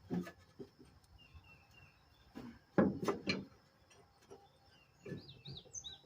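A few short knocks and clinks of hand-tool work on the engine, the loudest cluster about three seconds in, with small birds chirping in the background.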